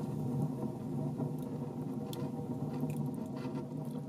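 Small folding wood-burning camp stove burning dry birch wood with a strong draft: a steady low drone with scattered crackles and ticks from the fire.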